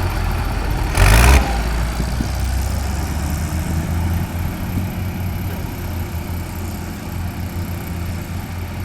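Tractor engine running steadily at a low, even pitch, with a brief loud rush of noise about a second in.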